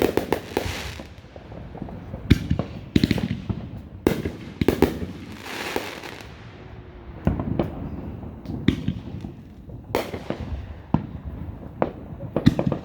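Aerial fireworks display: a string of sharp bangs from bursting shells, about ten over the stretch, some followed by a crackling hiss.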